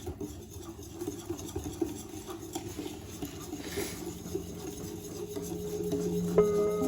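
Pancake batter being stirred in a mixing bowl, with an irregular scraping and light tapping of the utensil against the bowl. Background music comes in near the end.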